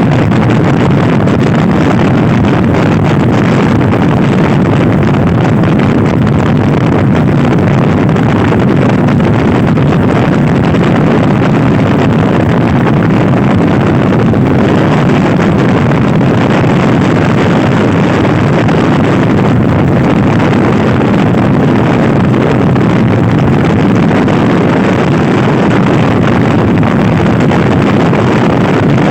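Loud, steady wind buffeting the microphone of a stock Honda Scoopy-i scooter ridden at speed, with the scooter's single-cylinder engine running underneath.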